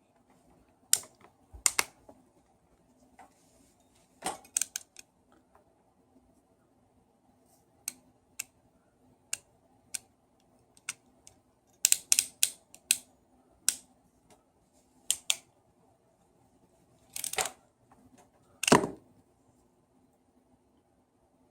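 Scattered sharp clicks and taps of small parts and hand tools being handled during a hammer drill repair, ending with two longer, louder bumps.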